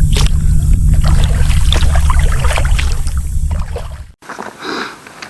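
Double-bladed paddle dipping and splashing as a canoe moves through water, with scattered clicks and drips over a heavy low rumble. The sound cuts off abruptly about four seconds in, leaving quieter outdoor ambience.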